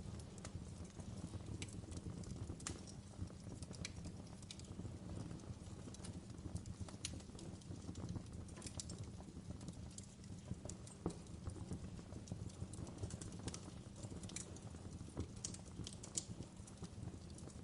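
Campfire burning: a steady low rush of flames under irregular sharp crackles and pops from the burning wood.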